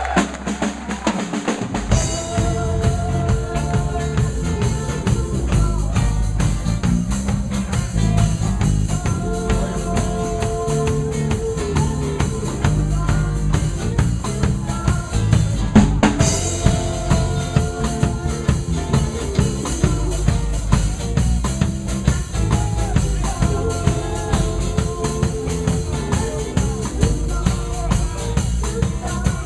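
Live band playing an instrumental reggae groove: drum kit with kick, snare and rimshots keeping a steady beat under bass and sustained chords, with one sharp accented hit about halfway through.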